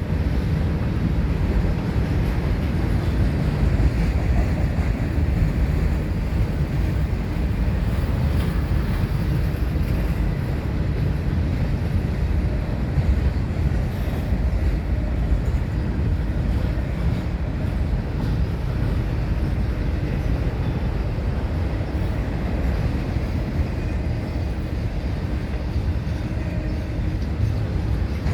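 Freight train rolling past: a steady, even rumble of cars on the rails.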